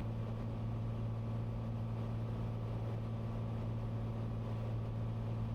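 Cessna 182's engine and propeller droning steadily inside the cockpit, a low even hum with no change in pitch.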